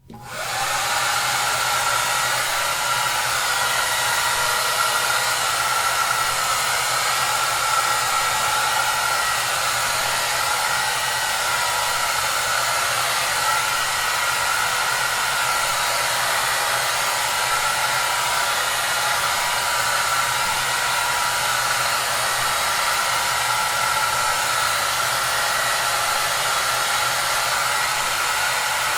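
Hair dryer running steadily: an even, dense rush of air with a steady motor whine and hum. It comes in after a brief silence and reaches full level within about a second.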